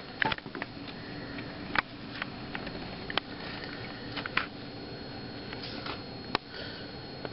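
Steady background hum with a thin high whine, broken by scattered sharp clicks and knocks about once a second.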